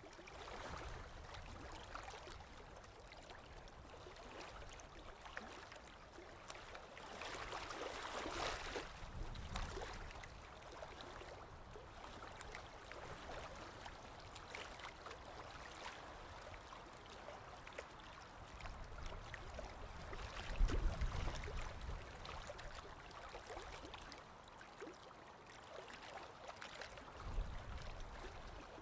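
Running water gurgling and trickling, like a small stream, with a few brief low rumbles about two-thirds through and near the end.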